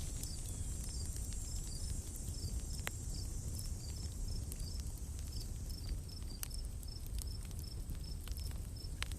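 Forest ambience: a small creature chirps high and short, about three times a second, over a steady low rumble. A few sharp crackling pops from a campfire break through, one about three seconds in and one near the end.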